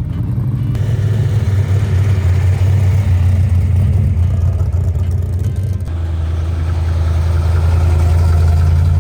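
Car engine idling with a steady deep rumble, the pitch dropping slightly about six seconds in.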